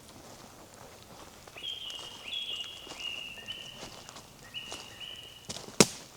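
Footsteps on a forest path, with a run of high, level whistled notes from an animal in the middle. A single sharp crack comes near the end and is the loudest sound.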